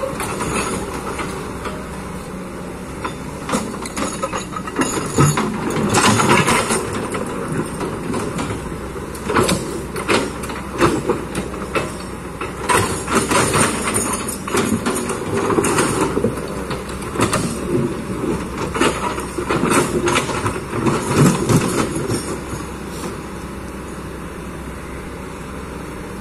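Kobelco excavator at work: its diesel engine runs steadily under irregular scraping, clanking and knocking as the bucket digs and moves rocks.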